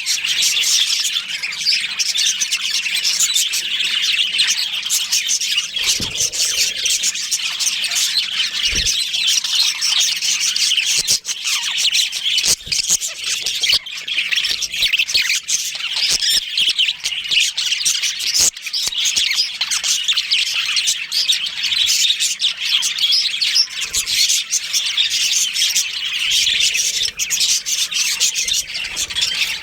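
A colony of budgerigars chattering and chirping nonstop, many high calls overlapping into a dense mass, with a couple of brief knocks.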